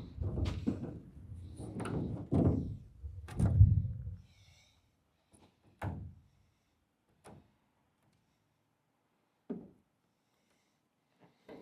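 A series of heavy thumps and knocks: several close together in the first four seconds, then single knocks spaced a second or two apart.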